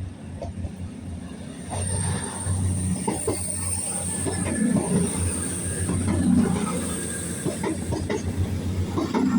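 A CrossCountry Class 221 Super Voyager diesel train running past with a low diesel drone and a steady high-pitched squeal. Occasional clacks come from its wheels on the track.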